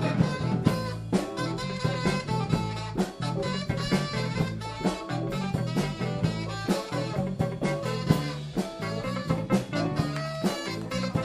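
Live blues band playing an instrumental passage of a funky blues groove: electric guitars, electric bass, drum kit and alto saxophone, with the drums keeping a steady beat under a repeating bass line.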